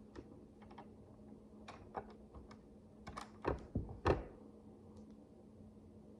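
Tiny plastic micro bricks clicking and tapping as they are handled and pressed together: scattered light clicks, with a louder cluster about three to four seconds in, over a faint steady hum.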